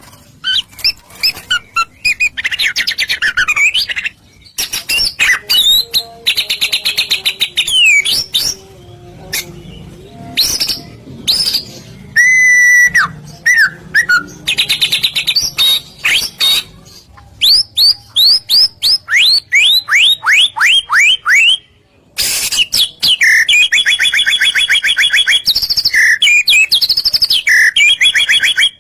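White-rumped shama (murai batu) singing loudly in full song, with varied whistled phrases and trills. Near the middle comes a run of about a dozen quick falling notes, then after a short break a fast repeated trill. This is the 'gacor' song used to provoke other shamas into answering.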